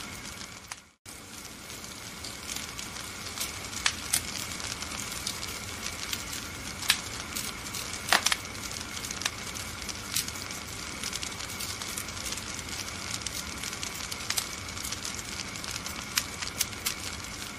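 Wood fire crackling in a fireplace: a steady hiss with frequent sharp pops, the loudest cluster about eight seconds in. The sound drops out briefly about a second in.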